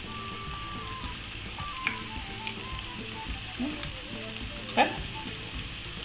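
Macaroni with egg and garlic sizzling gently in a non-stick frying pan. A quiet tune of single notes plays underneath, and there are a few light knocks, the sharpest about five seconds in.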